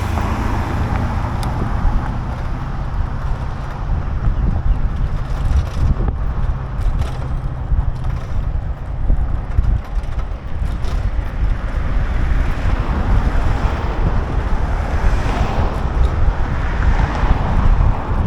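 Wind buffeting the microphone of a camera on a moving bicycle: a loud, uneven low rumble that rises and falls in gusts throughout.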